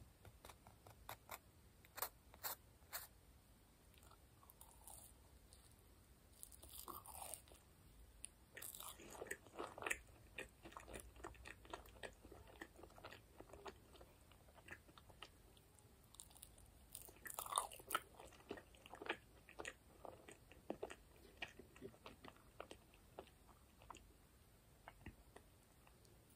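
Close-miked biting and chewing of toasted and plain marshmallows: soft, sticky mouth sounds broken by many small sharp crackles and clicks, with busier bursts of chewing a few times along the way.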